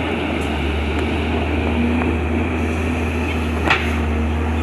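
Excavator's diesel engine running steadily, with a single sharp knock about three and a half seconds in.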